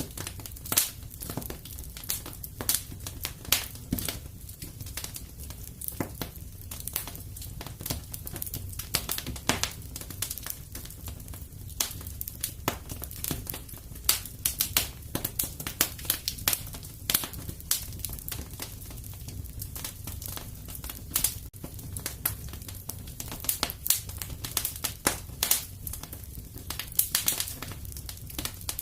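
Wood fire crackling, with irregular sharp snaps and pops over a low, steady rumble.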